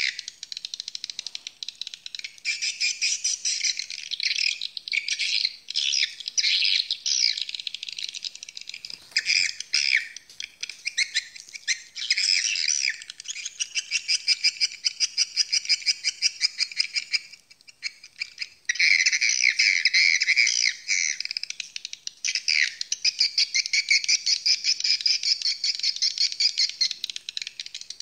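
Swiftlets calling: a steady stream of rapid, high-pitched chattering chirps with only brief lulls.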